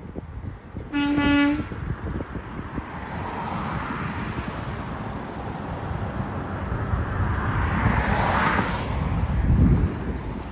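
A short single-note vehicle horn toot about a second in, lasting about half a second. A passing vehicle's road and engine noise then builds to a peak with a low rumble near the end. Wind buffets the microphone throughout.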